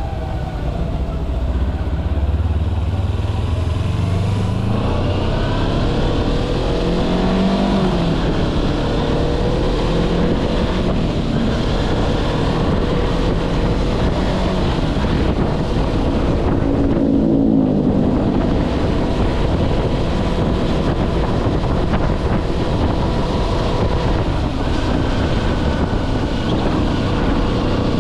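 Kawasaki Versys-X 250's parallel-twin engine running as the bike is ridden, its pitch rising and falling with throttle and gear changes.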